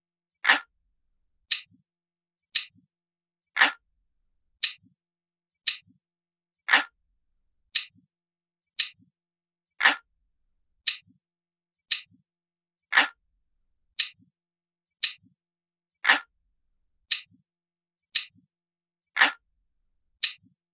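Glass-like ticking clock sound effect: one crisp tick about every second, with every third tick stronger and fuller.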